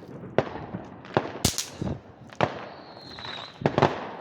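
Fireworks going off: a run of sharp bangs and pops, the loudest about a second and a half in, with a high thin whistle that dips slightly in pitch about three seconds in.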